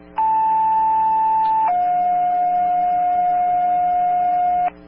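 Two-tone sequential fire-dispatch paging alert over the radio, the tones that set off the station pagers: a steady higher tone for about a second and a half, then a lower tone held for about three seconds that cuts off sharply, over a low radio hum.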